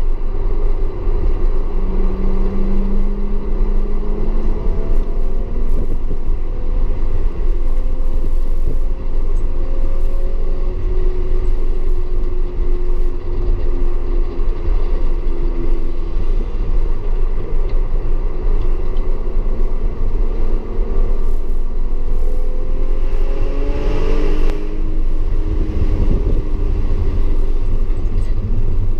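Audi S4 engine under way on track, its pitch rising and falling with the revs over a heavy, steady low rumble. Late on, the revs climb steeply and then drop away.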